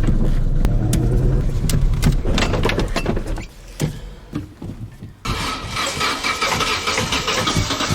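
Old Opel Corsa being cranked to restart after stalling: the engine stutters and spits, briefly catching with a loud rough running sound that fades about three and a half seconds in, then the starter cranks again, loud and steady, from about five seconds in.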